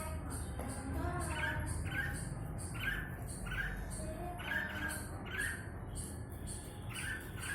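Bulbul calling in short, repeated notes, about two a second.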